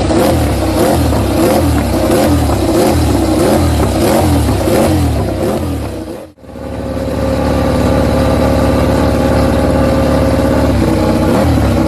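MotoGP racing motorcycle engine revving, its pitch rising and falling over and over, then after a sudden cut about six seconds in, running at a steady, even pitch.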